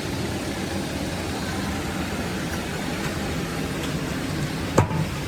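An engine running steadily with a low rumble, and one sharp knock near the end.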